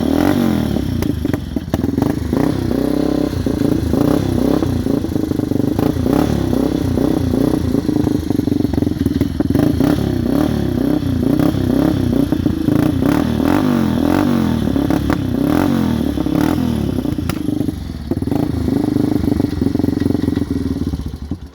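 Yamaha Warrior 350 ATV's single-cylinder four-stroke engine with an FMF exhaust, running cold on the choke, its revs rising and falling over and over as the throttle is feathered because it won't idle. It cuts out right at the end.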